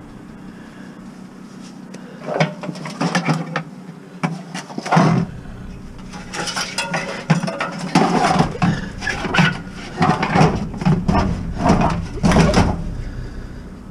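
Scrap metal and bottles being shuffled around in the back of a loaded vehicle: a long run of knocks, clanks and rattles from about two seconds in, with a low rumble of items sliding from about five seconds in.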